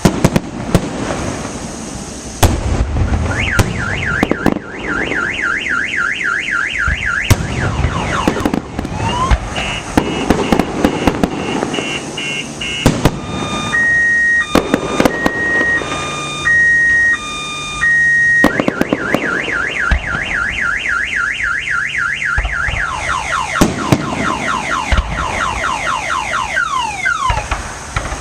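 A car alarm cycling through its tones: a rapid warbling wail, then a loud steady alternating beep, then the warble again. Fireworks bang throughout.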